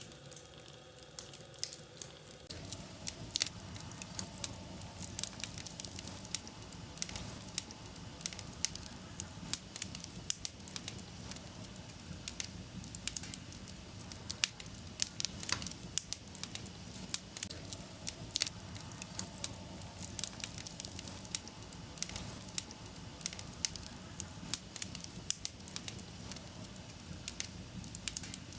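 Wood fire crackling in a fireplace: frequent sharp pops and snaps over a steady low rumble of flames. About two seconds in the sound shifts to a fuller fire with more low rumble.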